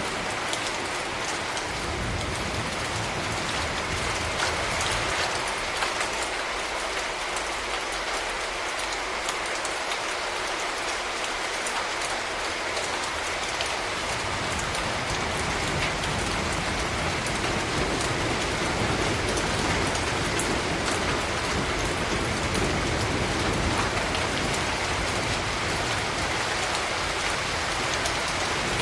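Steady rain falling on surfaces as an even hiss, with a low rumble underneath that fades in the first couple of seconds and comes back about halfway through.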